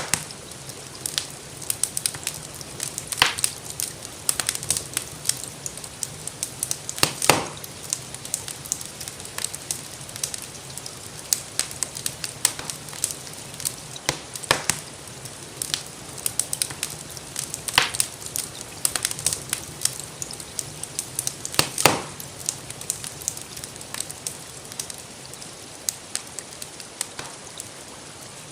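Wood fire crackling in a fireplace, with irregular pops and snaps, a few of them sharper and louder, over a steady hiss of gentle rain.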